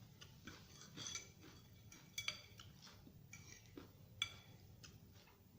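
Metal eating utensil clinking against a dish while salad is scooped up: five or six light, ringing clicks spread unevenly across a few seconds.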